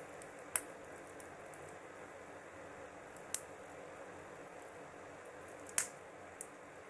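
Wood fire crackling with a soft steady hiss, the burning wood giving three sharp loud pops spread over the stretch and a few faint ticks between them.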